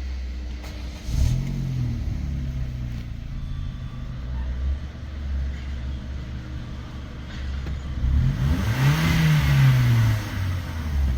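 Opel Corsa D's 1.2-litre Z12XEP four-cylinder petrol engine idling, blipped briefly about a second in, then revved up near the end, held for about two seconds and let fall back to idle: an engine test of a used engine.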